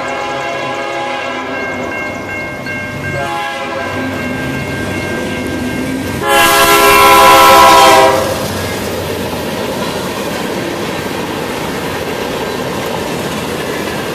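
BNSF diesel freight locomotive's air horn sounding for a grade crossing as it approaches, changing blast about three seconds in. The loudest blast comes about six seconds in as the locomotive reaches the crossing. It is followed by the steady rumble and clatter of covered hopper cars rolling over the crossing.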